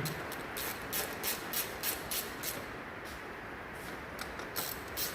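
Repeated short rasping strokes, about three a second, in two runs with a pause between, over a steady background hiss.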